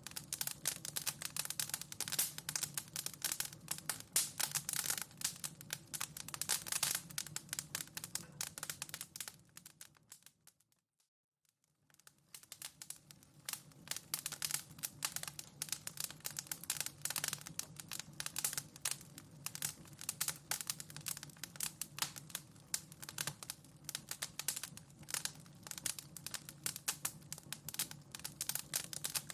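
Wood fire in a fireplace crackling, a dense run of irregular pops and snaps over a low steady rumble. About ten seconds in it fades down to silence and fades back up about two seconds later, the seam where the recording loops.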